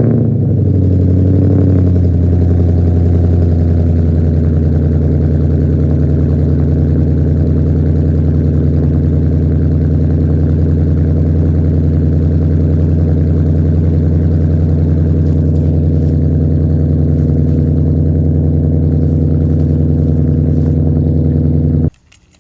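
2013 Ford Mustang GT's 5.0-litre V8 on a cold start, idling loudly through a straight-piped cat-back exhaust with resonators and mufflers deleted. The fast idle settles lower over the first couple of seconds, then holds steady until the engine is switched off abruptly near the end.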